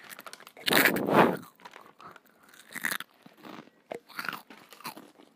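Saeukkang shrimp crackers being bitten and chewed close to an earphone microphone. One loud crunch comes about a second in, then quieter, scattered crunches of chewing.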